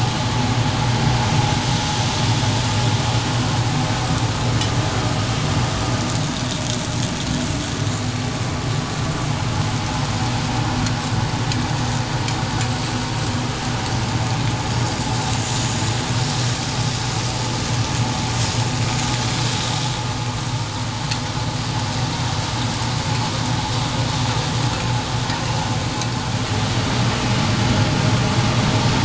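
Burger patties sizzling as they cook, over a steady low machine hum.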